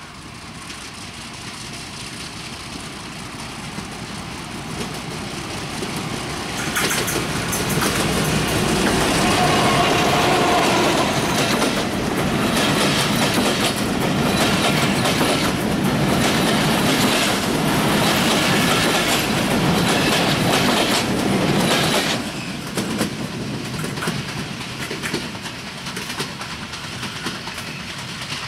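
Broad-gauge diesel-hauled passenger train approaching and passing close by. The diesel locomotive grows steadily louder and jumps in level as it comes alongside, then the coach wheels clickety-clack over the rail joints. About three-quarters of the way in the sound drops suddenly as the last coach passes, and the train's running noise fades as it moves away.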